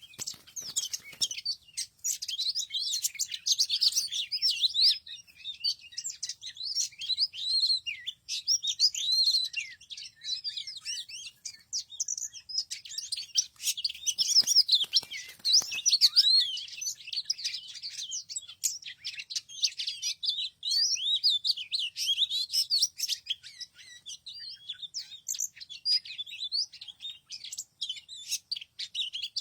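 Small birds chirping, a dense, unbroken run of rapid high-pitched chirps and quick rising and falling twitters.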